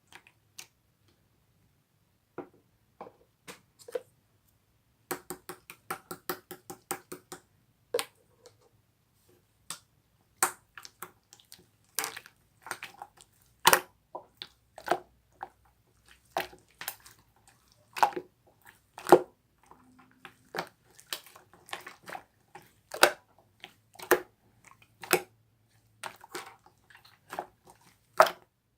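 Slime being squished and pressed by hand, making irregular wet pops and clicks, with a quick run of small pops about five to seven seconds in.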